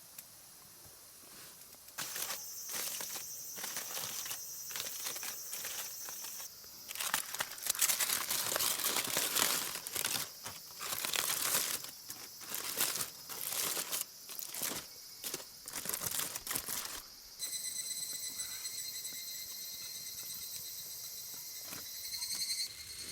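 Crinkling and rustling in irregular bursts for about ten seconds in the middle, like a wrapper or foil being handled. Insects buzz steadily before it, and a pulsing, high insect song starts near the end.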